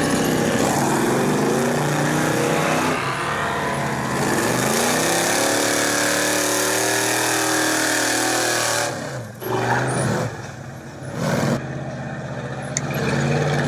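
Off-road rock-crawling truck's engine revving up and down under load. Its level drops sharply about nine seconds in, then it picks up again, quieter.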